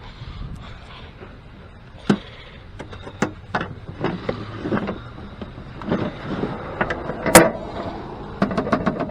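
Hand tools and metal parts being handled: scattered clinks and knocks, one loud clank about seven seconds in, then a quick run of small clicks.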